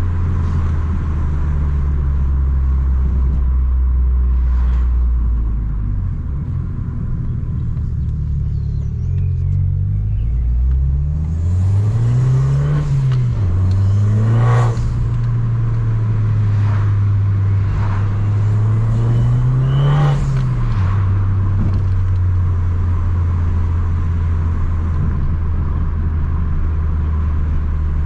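Tuned Abarth 595 Competizione's 1.4 turbo four-cylinder idling through a full 60 mm aftermarket exhaust, with two short blips of the throttle about twelve and twenty seconds in, each bringing a short burst of noise.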